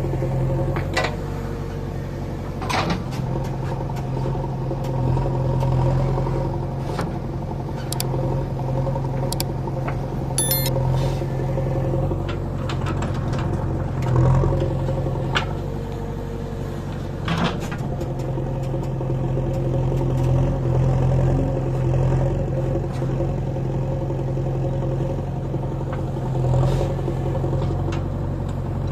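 JCB 3DX backhoe loader's diesel engine running steadily under work, its revs swelling and easing every few seconds, with a few sharp metallic clanks along the way.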